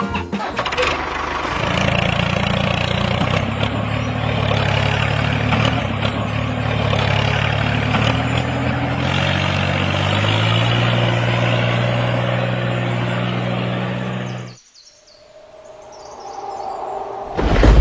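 Tractor engine running steadily, cutting off abruptly about three-quarters of the way through, then coming back quietly and building up near the end.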